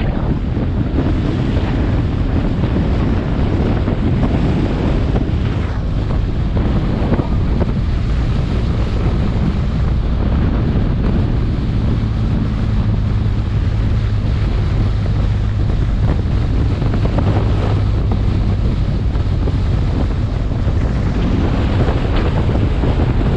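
Heavy wind rushing over the microphone on a moving motorcycle, with the motorcycle's engine note steady underneath, a little clearer in the middle.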